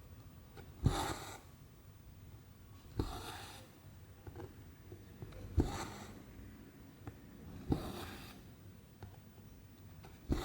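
Cross-stitch needle punching through 14-count canvas. Each stitch gives a sharp tick, then a short hiss as the cotton thread is drawn through the fabric. There are five stitches, one about every two to two and a half seconds.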